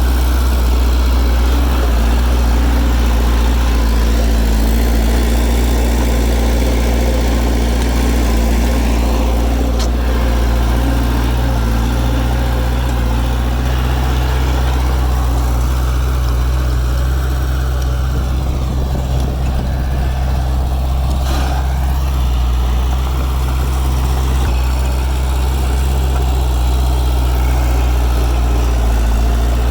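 Heavy diesel engine of earthmoving equipment running steadily, a deep unbroken drone with no change in pace.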